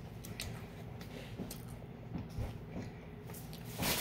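A person quietly chewing a bite of Oreo cookie, with faint soft clicks and mouth sounds. A louder rustling hiss begins near the end.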